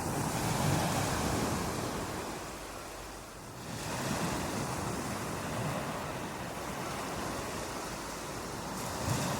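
Ocean surf breaking on a beach: a steady wash of noise that swells as a wave breaks, eases off about three seconds in, then builds again with the next wave and once more near the end.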